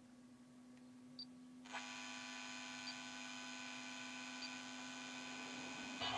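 Car sound system putting out unwanted electrical noise: a steady hum, joined about two seconds in by a louder buzzing whine made of many steady high tones.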